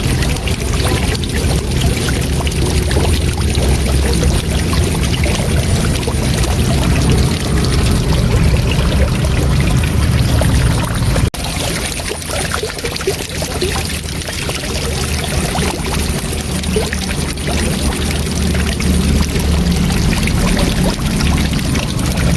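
Waterfall: water rushing steadily with a deep rumble. About halfway through there is a brief dropout, after which the low rumble is a little weaker.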